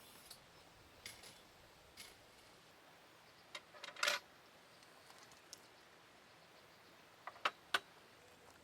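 Scattered light clicks and clinks of small hard objects being handled: a short cluster about four seconds in, then two sharp clicks near the end.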